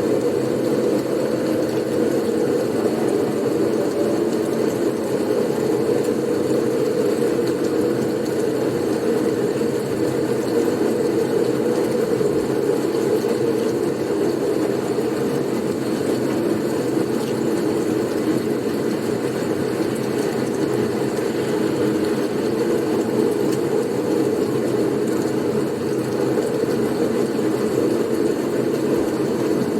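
Steady blizzard wind noise, a low, even rush that neither gusts nor changes in level.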